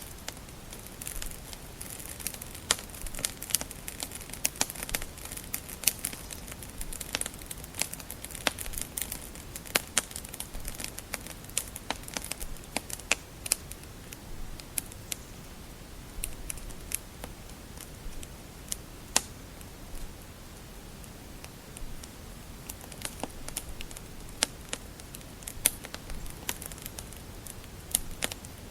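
Wood fire crackling: irregular sharp pops and snaps over a faint steady hiss, busier in the first half and sparser later on.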